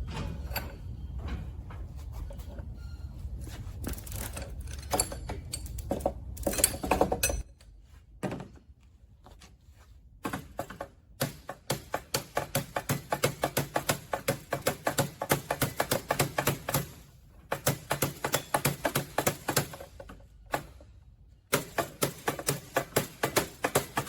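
Hand-tool work on a trike's axle and bearing assembly: rapid clicking at about six strokes a second, in spells of several seconds with short pauses. A low rumble with a few scattered knocks runs under the first several seconds.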